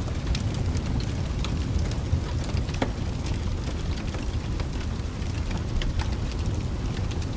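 Mixed rain-and-fireplace ambience: steady rain hiss over a deep continuous rumble, with a wood fire crackling in scattered sharp pops, a few a second.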